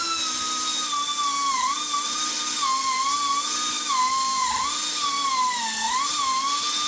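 Die grinder running at high speed on the cast aluminium edges at the bottom of an LS6 block's cylinders, smoothing them off. A steady high whine whose pitch sags again and again as the grinder bites under load.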